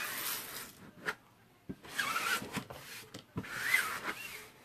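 Three rubbing strokes, each about a second long, across an adhesive silkscreen transfer laid on a board, with a slight squeak in each, smoothing it down to press out air bubbles.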